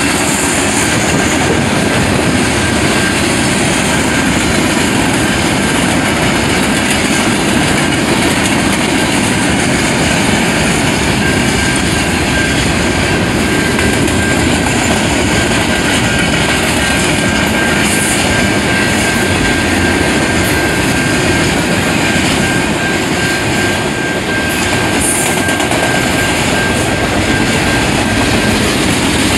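Freight train cars rolling past at close range: a loud, steady rumble and clatter of wheels over the rails. A thin, steady, high squeal joins about a third of the way in and runs until just before the end.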